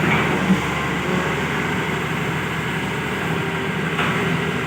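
Hitachi hydraulic excavator's diesel engine running steadily, with a brief sharp clack about half a second in.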